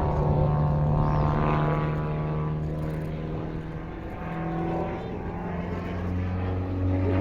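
Pitts S-1E Special aerobatic biplane's 180 hp Lycoming engine and propeller running under power as the aircraft flies a loop. The engine note dips in loudness around the middle, then drops in pitch and grows louder near the end.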